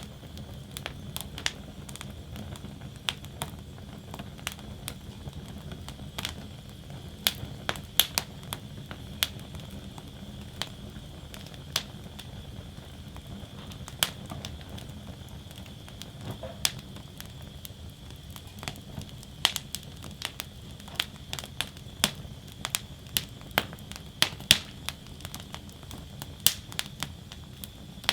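Wood fire burning in a fire basket: sharp, irregular crackles and pops over a steady low rush of flame, the pops coming thicker in the second half.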